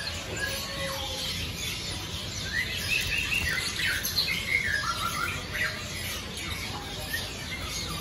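Caged songbirds chirping: a string of short chirps and quick whistles, busiest in the middle, over a low steady background noise.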